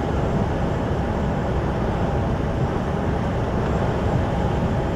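Steady engine and road noise inside a moving truck cab.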